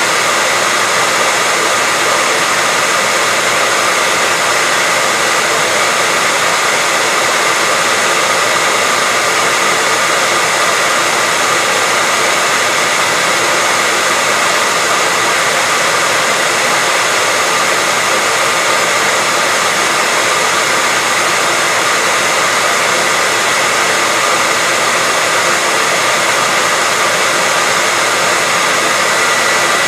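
Hair dryer running steadily: an unchanging airy hiss with a faint steady whine in it.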